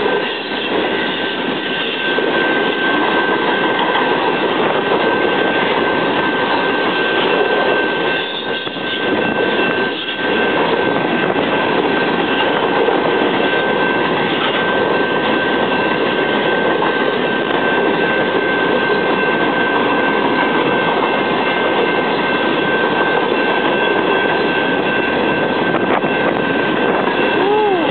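Norfolk Southern intermodal freight train rolling past over the crossing: a steady, loud rush and clatter of the cars' wheels on the rails. The crossing signal's bell rings as a steady tone throughout.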